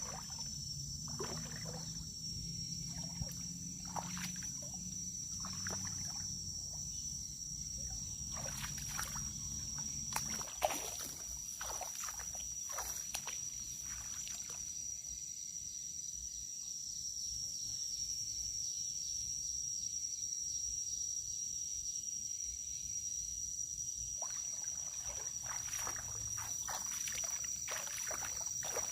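Rural outdoor soundscape: a steady, high-pitched insect drone with repeated small water splashes and sloshing. A low hum stops about ten seconds in.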